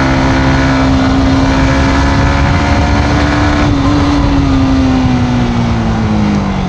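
Yamaha MT-15's single-cylinder engine running steadily through its stock exhaust while riding. Its pitch holds, then drops slowly over the last couple of seconds as the engine eases off.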